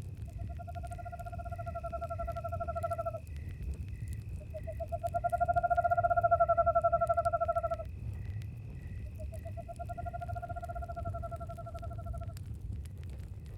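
An owl giving three long, even trilled calls of about three seconds each, the middle one loudest. Crickets chirp steadily about three times a second behind it, over the low rumble and scattered crackle of a campfire.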